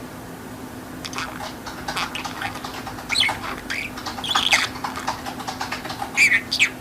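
Budgerigar chattering: a rapid, irregular run of chirps, warbles and squawks that starts about a second in and is loudest near the end.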